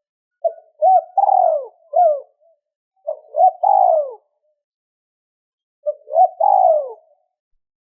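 Spotted dove cooing: three phrases of short coos, each with a longer falling note, separated by pauses.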